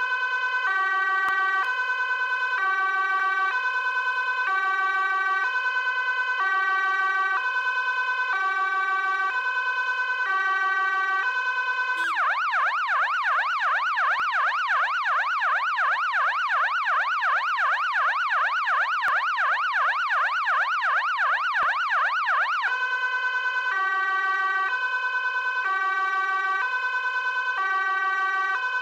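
Ambulance siren sounding a two-tone hi-lo pattern, changing note about every half second. About twelve seconds in it switches to a fast warble sweeping up and down about four times a second. About ten seconds later it returns to the hi-lo pattern.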